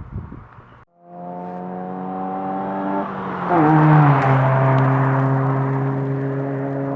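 2004 Honda Civic EX with a Magnaflow 2.25-inch Street Series cat-back exhaust driving past at steady throttle. The exhaust note grows louder as the car approaches, drops in pitch as it passes about three and a half seconds in, is loudest just after, then carries on steadily as it pulls away. A short burst of wind noise opens, cut off just before a second in.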